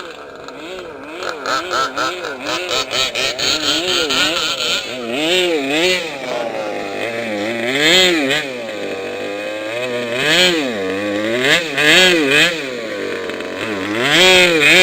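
Small two-stroke engine of a gas-powered 1/5-scale RC car revving up and down over and over, its pitch rising and falling: quick short blips at first, then longer, louder swoops.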